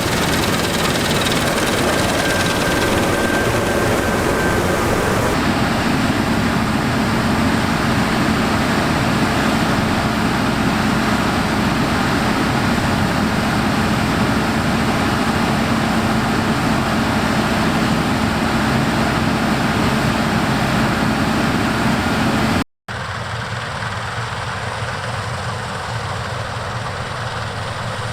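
Heavy harvest machinery running steadily, a continuous diesel drone with a steady hum. The sound changes abruptly about five seconds in, then cuts out for a moment about three-quarters through and resumes a little quieter.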